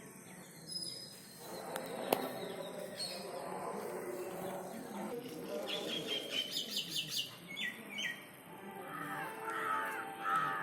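Birds calling and singing: lower calls in the first half, then a quick run of high repeated notes about two-thirds of the way in and more short phrases near the end.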